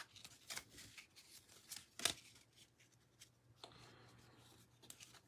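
Faint rustles and soft clicks of trading cards being handled and flipped through, with one sharper click about two seconds in.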